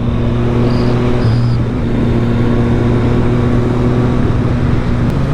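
Triumph three-cylinder motorcycle engine running steadily at cruising speed, with wind rush, heard from a mic inside the rider's helmet.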